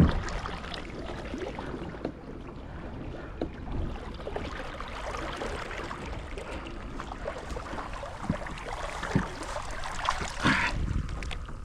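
Water sloshing and trickling against a kayak, with small scattered splashes and knocks and a louder splash about ten seconds in.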